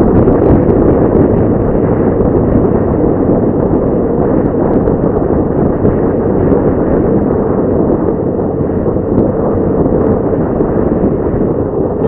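Loud, steady wind buffeting the microphone of a riding motorcycle, a continuous low rumble.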